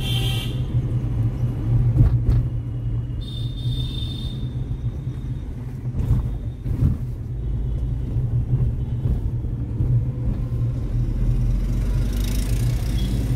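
Steady low engine and road rumble heard from inside the cabin of a moving Tata Punch, whose 1.2-litre three-cylinder petrol engine is running while the car is driven. A brief high-pitched tone comes in about three seconds in.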